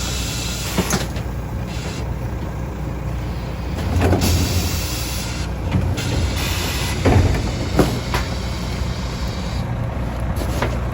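Garbage truck engine running steadily, with a handful of sharp clanks and knocks through it.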